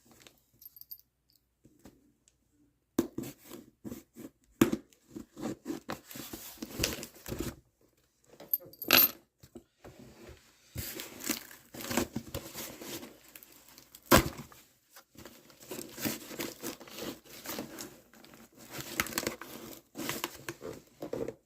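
Cardboard shipping box and packing tape being torn and pulled at by hand, irregular tearing and crinkling with a few sharp knocks, starting about three seconds in.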